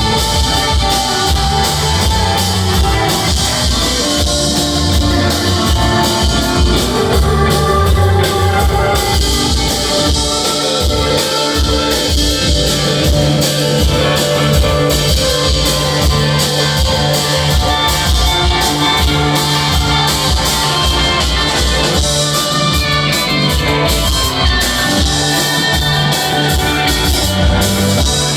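Live rock band playing an instrumental jam, with electric guitars and a drum kit keeping a steady beat.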